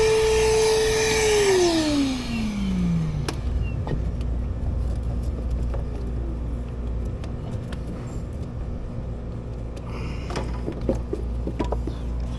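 Shop vac motor switched off and spinning down: its whine and rush of air fall in pitch over about two seconds and die away three seconds in. A low steady hum and a few small clicks and knocks remain.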